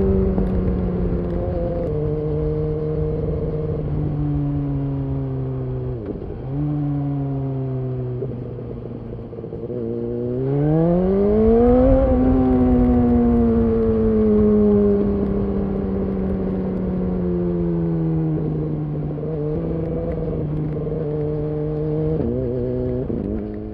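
BMW S1000RR inline-four exhaust note while riding. The revs fall and step through several gear changes, then climb steeply in a hard acceleration about ten seconds in. After that comes a long, slow fall in revs, with more gear changes near the end.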